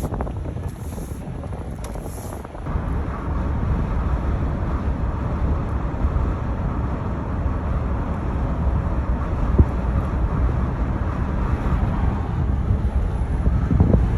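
Steady rumble of a moving vehicle, road and engine noise with wind buffeting the microphone, growing louder about three seconds in.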